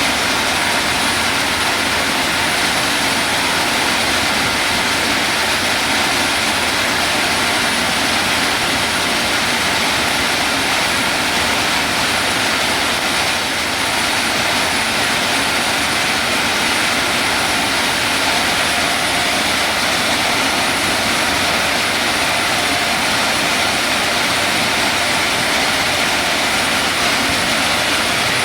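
Sand washing machine running: a steady, even rushing noise that holds unchanged throughout.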